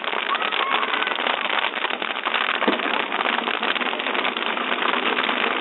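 Large bonfire burning: a steady, dense crackling of flames.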